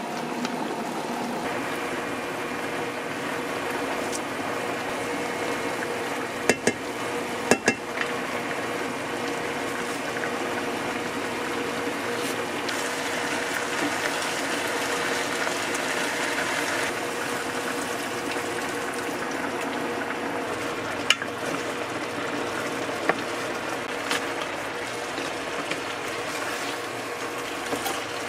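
Food cooking on the stove with a steady sizzling hiss, and a few sharp clicks of a utensil against the cookware a handful of times.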